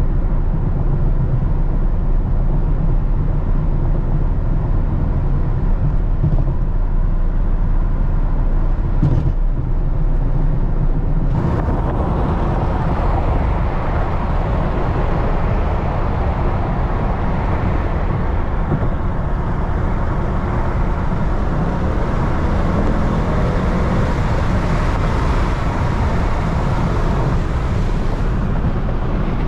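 Mercedes-AMG GT 63 S twin-turbo V8 running steadily under way, with tyre and road noise. About eleven seconds in, a rushing noise higher in pitch comes in suddenly and stays.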